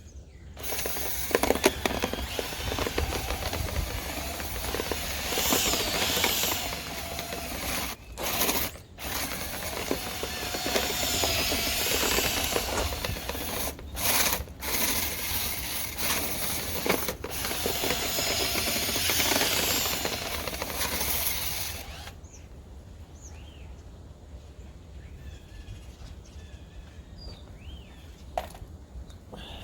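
Power drill spinning a dryer vent cleaning brush on extension rods inside a long, lint-clogged dryer vent duct. The drill runs steadily, stops briefly a few times, and shuts off about 22 seconds in.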